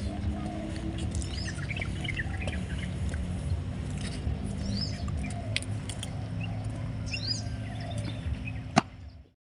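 Small birds chirping in short curved calls over a steady low hum. There is one sharp click just before the sound cuts off near the end.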